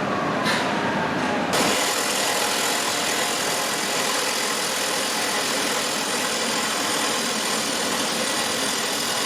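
Fire truck's engine and aerial-ladder hydraulics running steadily as the ladder is moved, a dense even mechanical noise. A faint tone falls in pitch during the first second and a half before the steady noise sets in.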